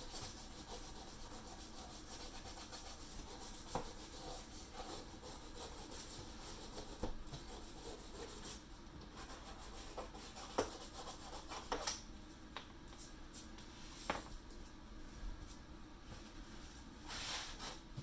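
Old caulk around a window sill, softened with sprayed alcohol, being scraped and rubbed off: a continuous dry scratching with a few sharp clicks scattered through it.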